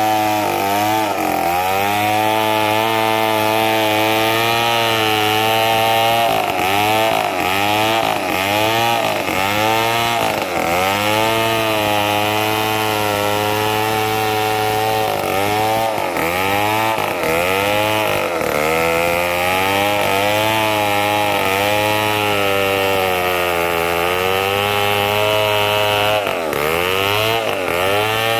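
Chainsaw cutting mahogany wood, its engine held at high revs and dipping briefly in pitch again and again as the chain bites into the wood, then picking back up.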